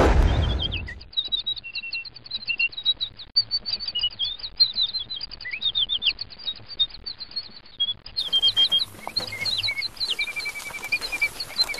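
Many small birds chirping and singing, short high calls overlapping throughout. It opens with a loud low boom that fades over about a second.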